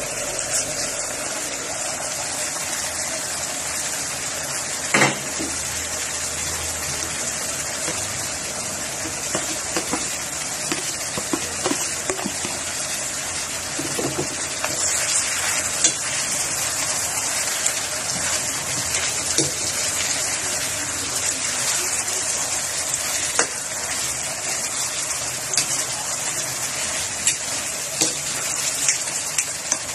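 Food frying in a pan, a steady sizzle, with scattered sharp clicks of a utensil stirring against the pan; the loudest click comes about five seconds in.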